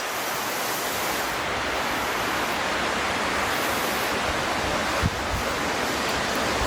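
Steady, even rushing hiss with a soft low thump about five seconds in.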